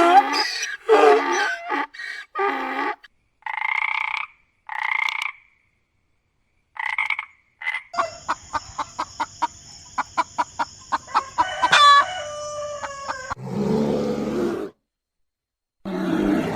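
A string of separate animal calls: several short calls at first, then a long run of evenly spaced pulses, several a second, over a steady high hum or trill, then another brief call near the end.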